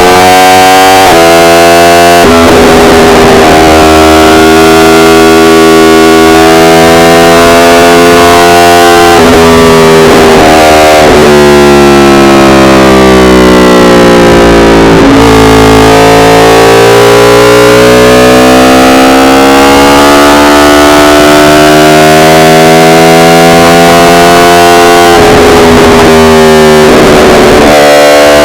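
Yamaha R1 inline-four engine running under way, its pitch sliding down for a few seconds near the middle and then climbing back, with a few brief rough breaks in the tone. The recording is overloaded and distorted.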